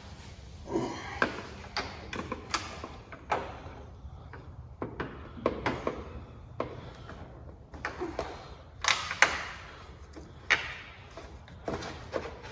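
Irregular clicks, taps and knocks of hands and tools working plastic clips and light housings loose from the front end of a truck.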